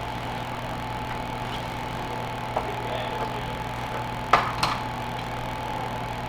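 Steady background hum with a few sharp kitchen clicks or knocks: one faint click about two and a half seconds in, then two sharp ones in quick succession about four seconds in.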